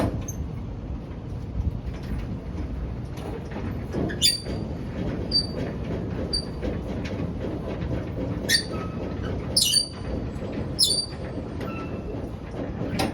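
Semi-trailer landing gear being hand-cranked to lower the trailer's nose: a steady low grinding from the gear, with a few sharp metallic clinks and squeaks scattered through it. The trailer is lightly loaded, so the crank turns easily.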